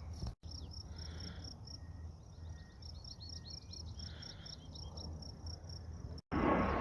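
Crickets chirping outdoors in a steady, evenly pulsing high trill, with a short run of quick high falling notes midway. Near the end, a louder rushing noise takes over.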